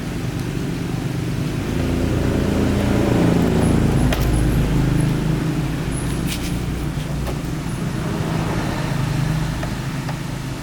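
A motor vehicle engine running with a low hum that swells over the first few seconds and eases off slowly, with a few faint clicks.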